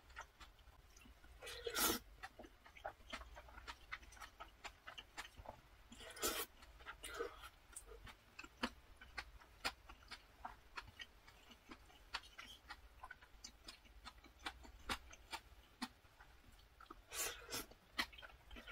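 Close-up eating of spicy chewy jjolmyeon noodles with whelk: chewing and wet mouth noises with many small clicks, and a few louder, longer sounds about two, six and seventeen seconds in.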